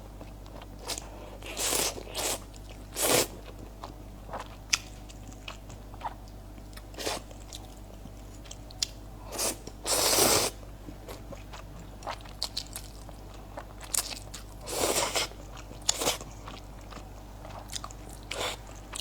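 Close-miked eating: irregular bites and chewing, with sharp wet mouth clicks between them and a few louder bursts of half a second or so.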